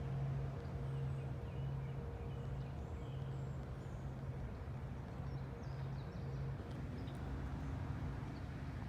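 Steady low machinery hum that drops out and returns every second or so, with faint bird chirps above it.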